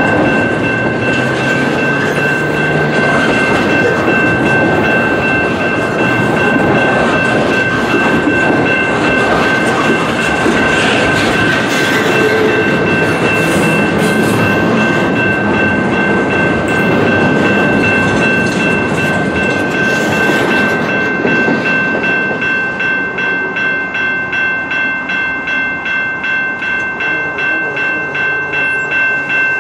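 Double-stack intermodal well cars rolling past with steady wheel and rail noise and clickety-clack, the last cars clearing about 20 seconds in. A level-crossing bell rings throughout; its strokes, about two a second, stand out once the train has gone.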